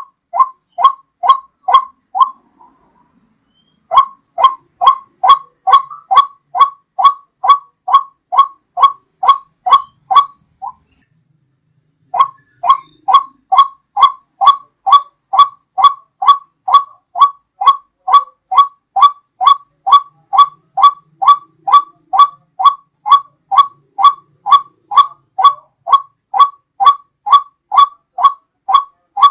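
White-breasted waterhen (ruak-ruak) calling: a clear, loud note repeated about two and a half times a second in long runs, with two short pauses. This is a recorded lure call used to draw the birds in.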